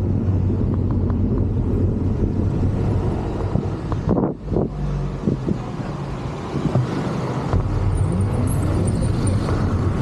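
A vehicle engine running while on the move, with road and wind noise. It drops briefly about four seconds in, then picks up again, and a rising pitch is heard near the end as the engine speeds up.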